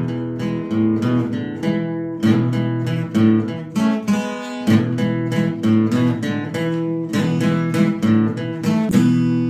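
Guitar being strummed in a steady rhythm of chords, several strokes a second. The last chord rings on near the end.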